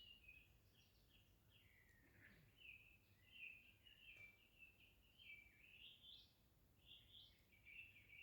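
Faint songbird singing at dawn: a continuous string of short, varied high chirping notes.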